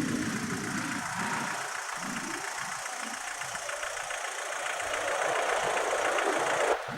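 Aircraft engine noise, a continuous roar that grows louder and higher toward the end and then cuts off suddenly shortly before the end.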